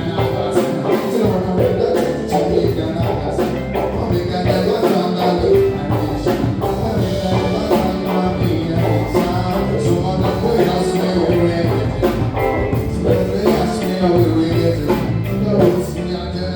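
Live band playing a song with a steady drum beat and pitched instruments.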